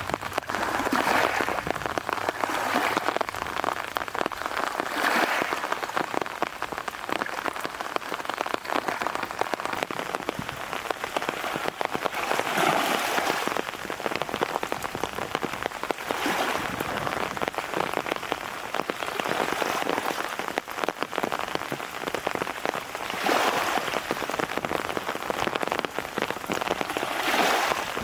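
Heavy typhoon rain falling with a dense crackle of drops, swelling into louder rushing gusts of wind-driven rain every few seconds.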